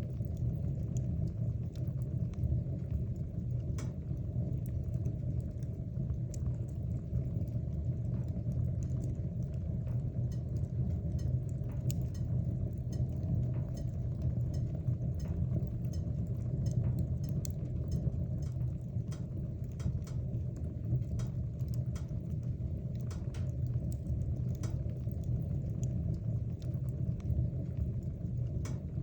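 Wood fire burning in a fireplace: a steady low rumble of flame, with frequent small irregular crackles and pops from the burning logs.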